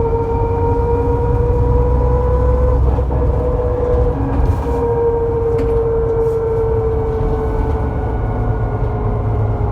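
Bus's faulty rear axle whining: a strong steady whine over low engine and road rumble, edging slightly up in pitch in the first few seconds, then slowly sinking, the sound of a bad axle.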